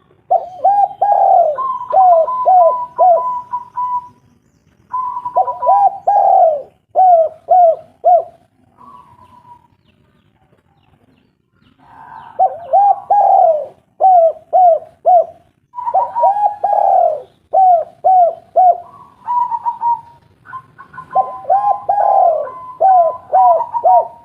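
Spotted dove cooing in repeated phrases, each a drawn-out first coo followed by several shorter coos, with a higher, steadier call overlapping much of the phrasing. It is a lure recording of a bird in full song, used to get captive doves to call.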